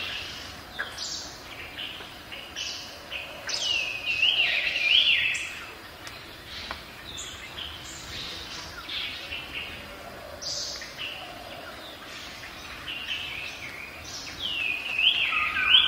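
Songbirds singing, with many short chirps and repeated falling runs of notes, loudest about four seconds in and again near the end.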